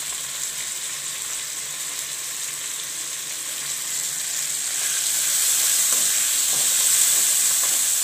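Tomatoes, green chillies and spices sizzling in hot groundnut oil in a steel kadai. The sizzle grows louder about halfway through as the pan is stirred, with a few light scrapes of the spatula on the metal.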